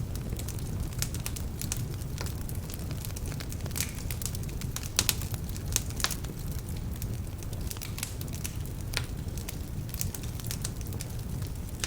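Wood fire burning in a fireplace: a steady low rush of flames with frequent sharp crackles and pops from slightly damp logs, the loudest pops about five to six seconds in.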